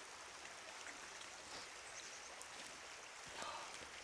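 Faint steady running water of a small stream or outflow, with a brief rustle a little past three seconds in.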